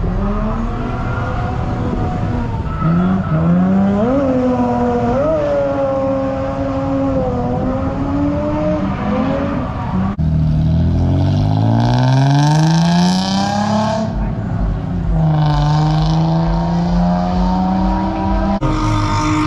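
A performance car engine revving, with quick throttle blips, then winding up in pitch several times, with tires squealing over the loudest run.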